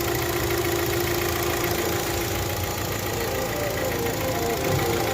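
Hyundai Tucson engine idling steadily, running smoothly now that the repaired ECM again sends injector pulses to cylinders 3 and 4.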